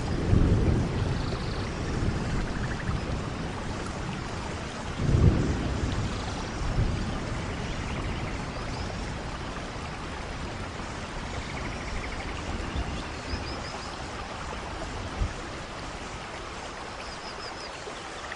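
Steady heavy rain in a rainforest, with low rumbles of thunder swelling at the start and again about five seconds in, then easing off. A few faint high chirps come through the rain near the end.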